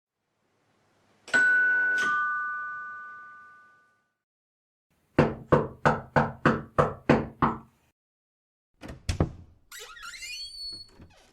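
Doorbell sound effect: a two-note ding-dong chime, the second note lower, ringing out for a couple of seconds. Then about eight quick knocks, as on a door, followed by two thumps and a short squeaky, scratchy noise near the end.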